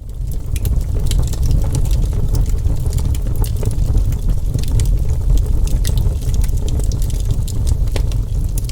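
Wood fire crackling and popping in a terracotta tile stove, with many quick irregular snaps over a steady low rumble.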